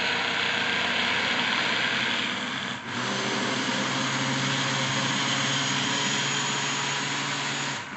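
Kitchen blender motor running at full speed, mixing a thick flour, egg, milk and oil batter, with a brief dip about three seconds in. It is switched off at the very end.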